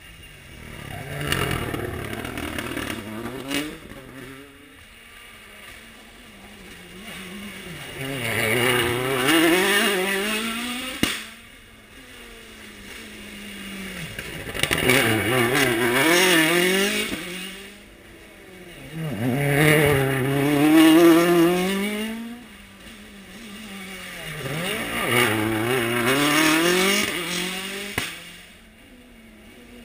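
Rally car engine revving hard and dropping back through gear changes and corners. It swells loud and fades away about five times as the car works along the stage.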